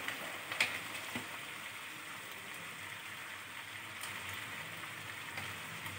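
Chicken pieces sizzling in a kadai as they cook in their own released juices: a steady, gentle hiss with a couple of light clicks in the first second.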